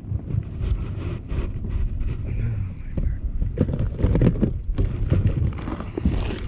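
Wind buffeting the microphone as a low rumble, with a series of small knocks and clatters from gear being handled, thickest in the second half.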